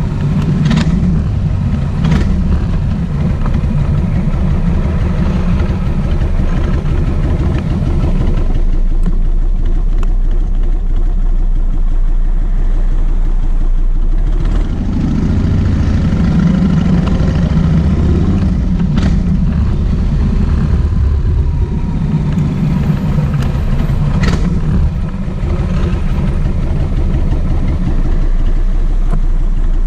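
Kawasaki VN1600 Mean Streak motorcycle's V-twin engine running on the move, its note swelling twice through the middle, with a few sharp clicks along the way.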